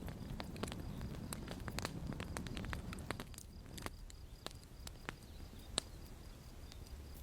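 Campfire crackling: irregular sharp pops and snaps over a low, steady rush of the flames, the pops thinning out somewhat after about three seconds.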